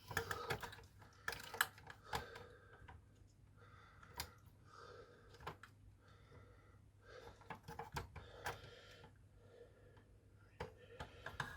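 Scattered light clicks and rattles of plastic parts and hoses being handled as the pump is worked loose from inside an opened Nespresso Citiz coffee machine.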